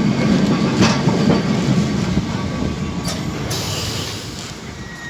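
Lisbon Tram 28 streetcar running on its rails: a steady low rumble of wheels on track with a few sharp clacks, easing off near the end.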